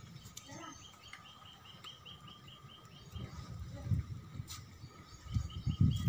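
A small bird calling a rapid series of short high chirps, about six a second, in two runs. In the second half there are low thuds on the microphone, louder than the bird.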